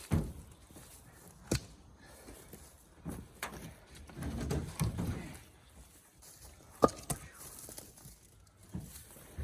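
Cherry firewood blocks being unloaded by hand: a few sharp, separate knocks of wood hitting wood, with shuffling and scraping in between.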